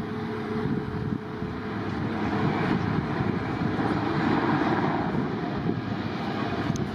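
Airliner engine noise at an airport: a steady rushing sound that swells a little around the middle.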